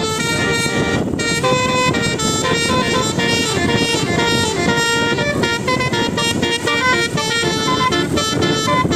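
Horns tooting over and over in quick succession, many short pitched notes, over a steady din of traffic.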